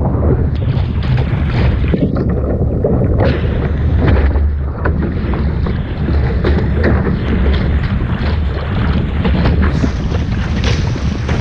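Wind buffeting the microphone aboard a small sailing boat: a constant loud rumble, broken by many short rushes and splashes of water.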